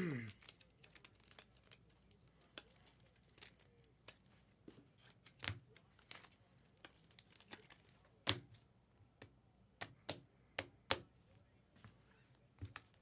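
Faint tearing and crinkling of trading-card box and pack wrapping being opened and handled, with scattered sharp clicks and rustles.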